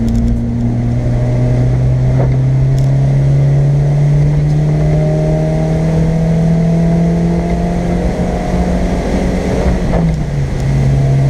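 Car engine pulling hard under throttle out of a corner, its pitch climbing slowly, then dropping sharply with an upshift about ten seconds in before pulling on again, over steady road noise.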